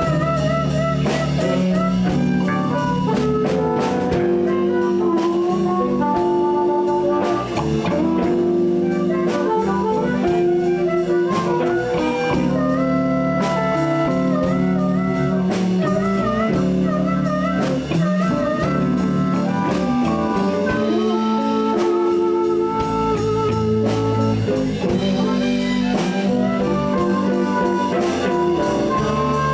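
Live blues band playing an instrumental passage: drums, bass and electric guitars, with a lead line of held notes that waver and bend.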